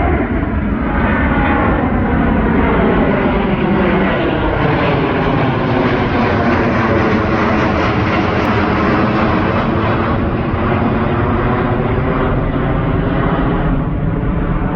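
Jet airliner passing overhead: a loud, steady rush of engine noise whose tone slides down and then back up as the aircraft goes by.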